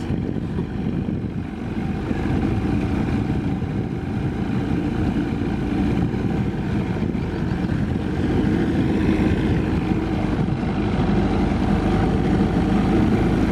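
Gas outboard motor, just started, running steadily at low speed on a small boat, a little louder from about eight seconds in.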